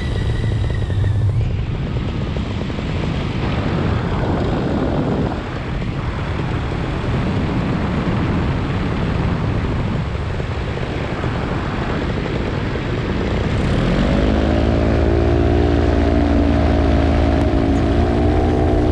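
Steady wind rush from a flying remote-controlled model aircraft. About 14 s in, a pitched drone with several overtones slides up and then holds steady.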